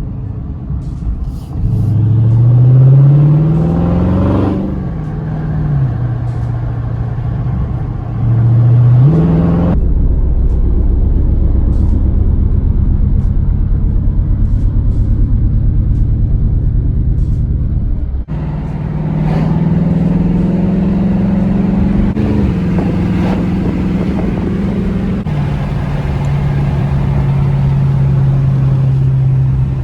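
V8 of a 2021 widebody Dodge Charger with its mid muffler deleted, running loud through an open exhaust. The revs climb and drop twice, the exhaust gives a low, pulsing rumble for several seconds, then the revs climb once more and settle to a steady cruise.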